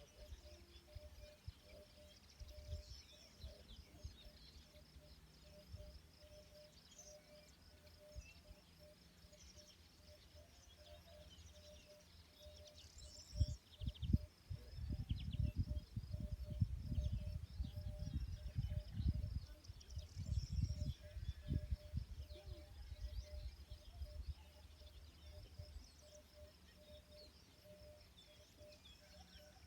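Birds chirping and calling on and off, with a faint steady pulsing tone underneath. Irregular low rumbling comes in for several seconds in the middle.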